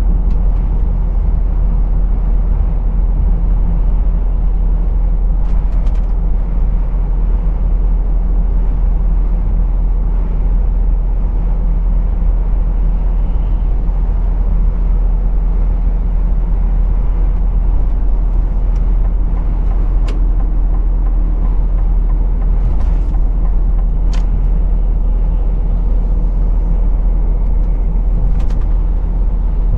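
Lorry driving, heard from its cab: a steady low engine drone and road rumble, with a few faint clicks now and then.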